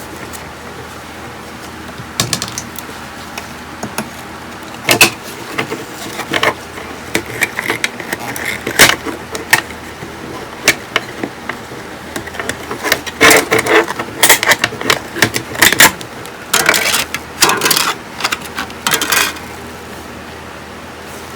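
Irregular clicks and clatter of small tools and metal parts being handled during electronics repair work. The clatter comes in scattered bursts, busiest in the second half, over a faint steady background noise.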